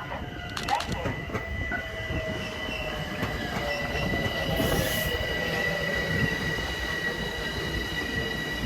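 Metro-North commuter train running past on the rails, with a steady high-pitched squeal and a lower tone that falls slowly, over a rumble that grows gradually louder.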